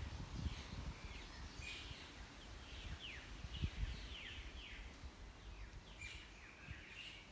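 Birds calling: a run of short, quick downward-sliding chirps and a few brief held notes, with irregular low thumps underneath.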